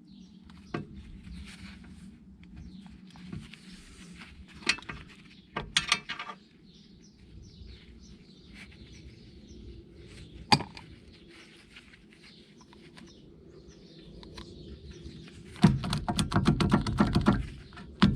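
Quiet clinks and knocks of tools handling metal car parts, with a sharp click about ten seconds in. Near the end comes about two seconds of loud, fast, rattling mechanical hammering.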